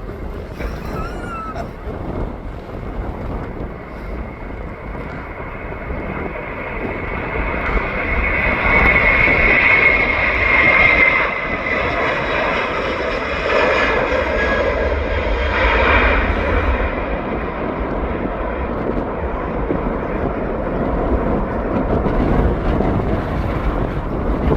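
Airliner's jet engines passing by: the noise swells to a peak with a high whine a few seconds in, then fades into a lingering rumble.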